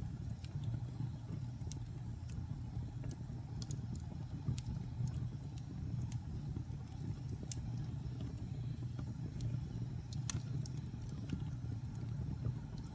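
Wood fire burning: a steady low rumble of flames with scattered sharp pops and crackles, the loudest about ten seconds in.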